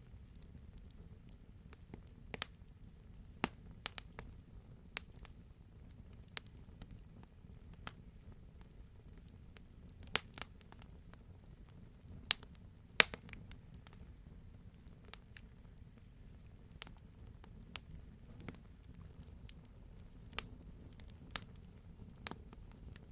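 Wood campfire burning, with irregular sharp crackles and pops over a steady low rumble; one pop about 13 seconds in is the loudest.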